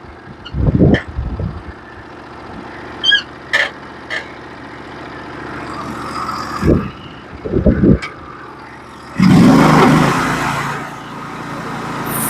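Norwood portable bandsaw mill running steadily, with several clanks and knocks as the saw head is set. About nine seconds in, the mill surges loudly, as though the engine is throttled up to cut, then eases off.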